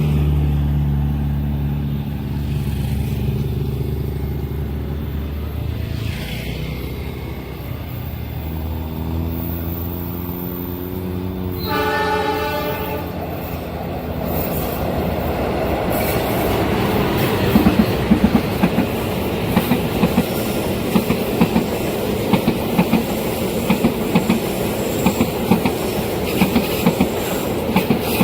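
A train approaching over a low engine rumble, with one short horn blast about twelve seconds in. The train then rolls past with a loud rumble of wheels and a regular clickety-clack of wheels over the rail joints.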